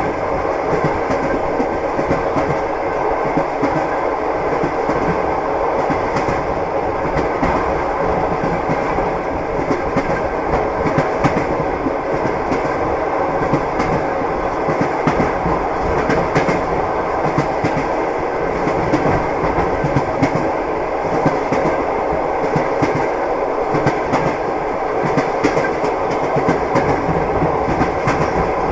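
Continuous rumble of a passenger train in motion, its wheels clicking over the rail joints, with no let-up.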